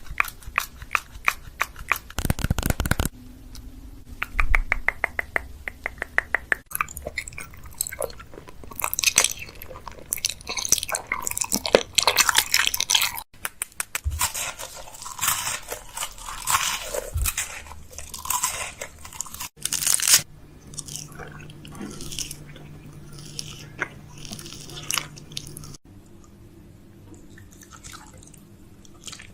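Close-miked ASMR mouth sounds: wet clicks, smacks and crunchy, chewing-like noises, with a few runs of fast, even clicking near the start.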